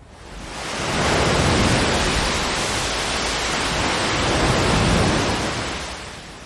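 Ocean waves: a single surge of surf that swells up over about a second, holds for several seconds, then dies away near the end.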